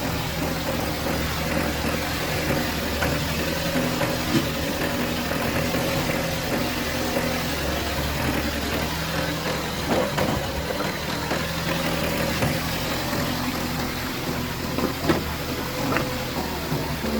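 Excavator's diesel engine running steadily at idle, with a few sharp knocks.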